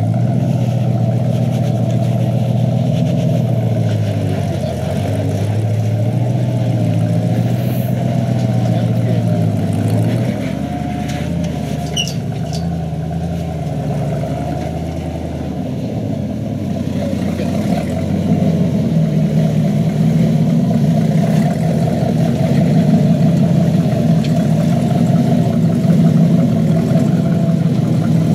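Tow truck engine working under load as the truck backs up a steep slickrock climb. The engine note shifts and drops about a third of the way in, then rises and gets louder for the last third.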